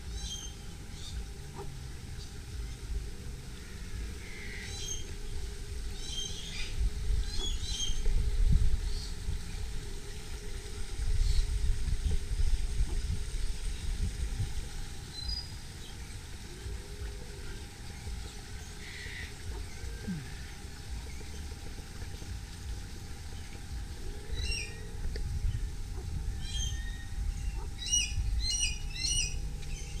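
Birds giving short, high chirps in scattered clusters, busiest near the start and again near the end, over a low rumble on the microphone.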